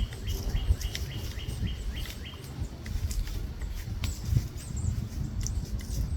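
Birds calling: a quick series of short, evenly repeated chirps, about three a second, that stops about two seconds in, followed by scattered higher chirps and a few faint clicks, over a steady low rumble.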